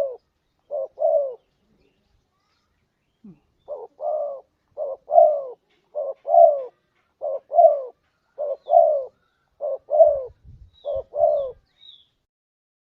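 Spotted dove (tekukur) cooing in a steady series of two-part coos, each a short note followed by a longer falling one, about one phrase a second, with a pause of about two seconds near the start.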